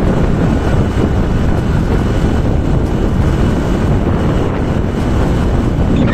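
Loud wind rumble on the microphone of a moving motorbike, mixed with road and engine noise.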